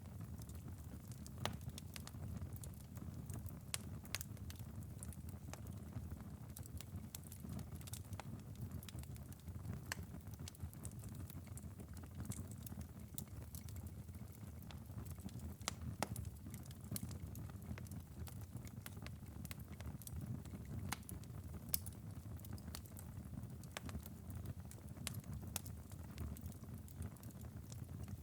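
Ember bed of a wood-burning fireplace after a long burn, with a steady low rumble and scattered sharp crackles and pops every second or so.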